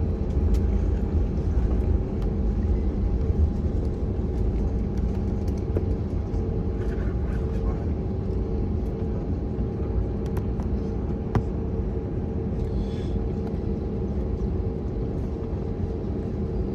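Steady in-cabin rumble of an Airbus A321neo on the ground after landing, its CFM LEAP-1A engines running at low power, with a constant low hum and faint steady tones.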